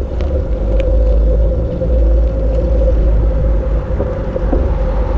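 Wind rumbling on the microphone of a moving bicycle, with a steady hum underneath and a few faint ticks.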